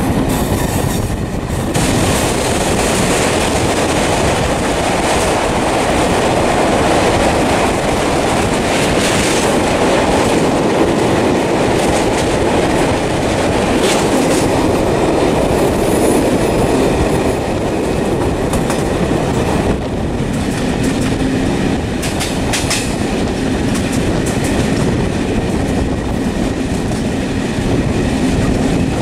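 Loud, steady rumble and rush of a moving vehicle, with scattered clicks and knocks; the tone shifts twice.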